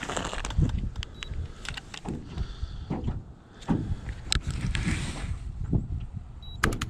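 Wind rumbling and buffeting on an open fishing boat, with scattered sharp clicks and knocks.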